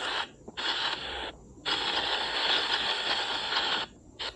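Spirit-box app on a phone playing bursts of radio-like static, cutting out briefly three times between bursts.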